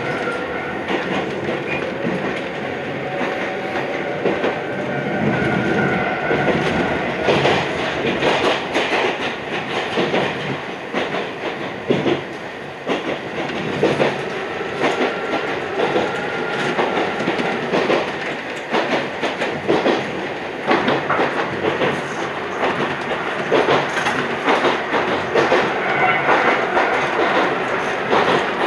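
Iyotetsu 3000 series electric train running along the line, heard from the driver's cab: a steady rolling rumble with repeated clacks of the wheels over rail joints.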